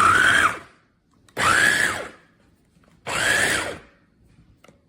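Electric food chopper's 450 W copper motor pulsed three times, each run under a second, its whine climbing as the blades spin up and dropping as they stop, the bi-level blades chopping scallions.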